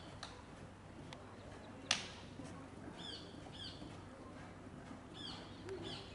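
Small birds chirping, short falling calls a few times, over steady outdoor background noise, with one sharp click about two seconds in.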